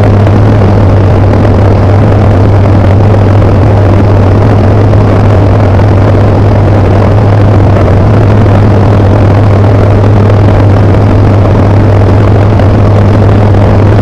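Tecnam P92 light aircraft's engine and propeller heard from the cockpit, a loud, steady drone with a strong low hum.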